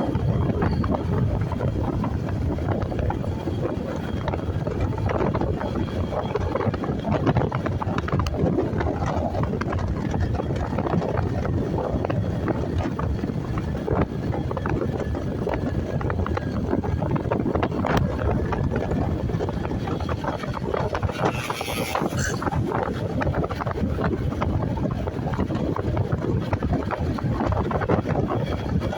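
Riding a motorcycle: steady wind rushing over the microphone with the motorcycle running underneath. A brief higher-pitched sound rises above it about three quarters of the way through.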